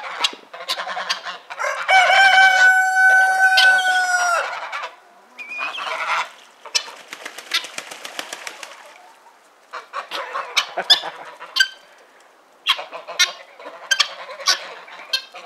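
Backyard chicken flock calling: a rooster crows once about two seconds in, ending in a long held note, then many short, sharp clucks and chatter.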